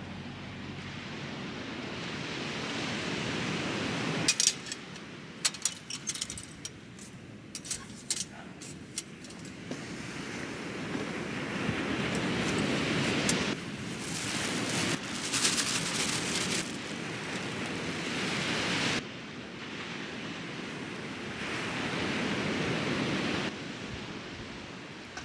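Ocean surf washing in and out in slow swells, with two spells of sharp clicks and rattles.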